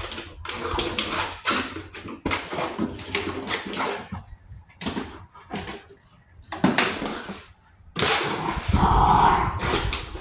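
Rottweiler puppy barking while playing, with irregular scuffling and knocking sounds; a longer, louder outburst comes near the end.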